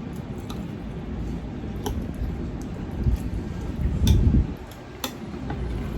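Close-up eating sounds: chewing and mouth noises, with a few sharp clicks and taps of dishes or utensils scattered through.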